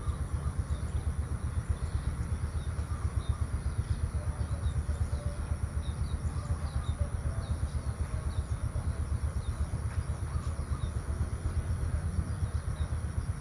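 Outdoor morning ambience over rice paddies: a steady low rumble that flickers in level, with faint, repeated small bird chirps and a thin, steady high-pitched tone.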